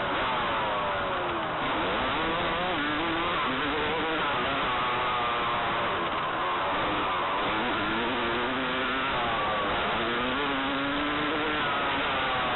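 Motocross dirt bike engine revving up and dropping back several times as the throttle is opened and shut through the track's corners and jumps, over a steady rushing noise.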